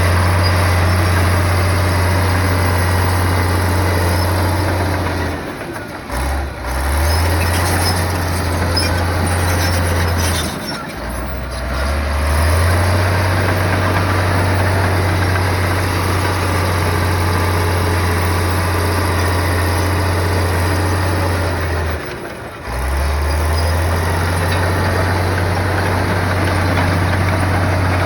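Heavy bulldozer's diesel engine running hard under load, a steady low drone. Three times it dips and drops in pitch, then climbs back up as the revs recover.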